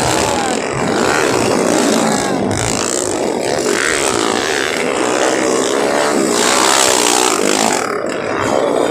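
Several underbone motorcycle engines revving and running at once, their pitches rising and falling as they overlap.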